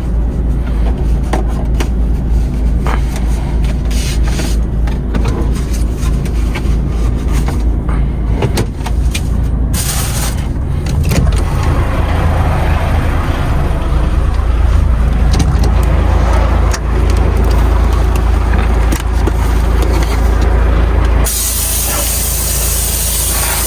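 Truck engine running with a steady low rumble and scattered clicks; about three-quarters of the way through, a sudden steady hiss begins.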